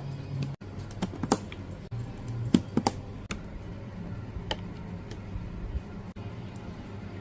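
A string of irregular sharp clicks and taps, about a dozen, over a low steady hum.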